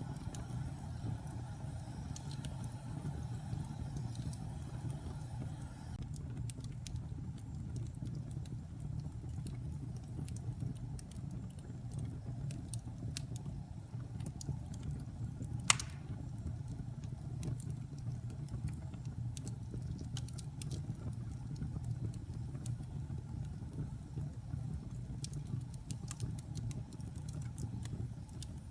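Wood fire burning in a fireplace: a steady low rumble of flames with scattered crackles and one sharp pop a little past halfway.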